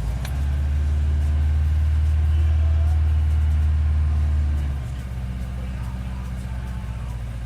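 VAZ 2103 carburetted inline-four catching right at the start after cranking, a cold start after two months standing. It runs fast and loud for about five seconds, then drops to a lower, steady idle.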